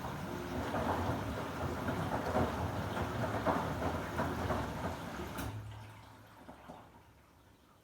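Samsung WW90J5475FX/AH front-loading washing machine in its rinse cycle: water rushing and sloshing in the drum with uneven surges. About five and a half seconds in it cuts off suddenly with a click, leaving a low hum that dies away.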